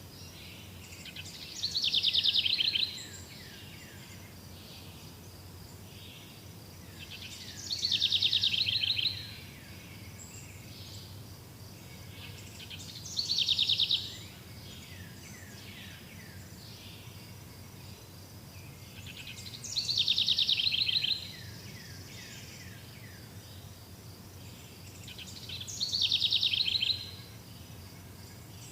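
A songbird sings the same short song five times, about every six seconds. Each song is a quick run of high notes that ends in a fast trill. A faint steady hiss of outdoor background sound runs beneath it.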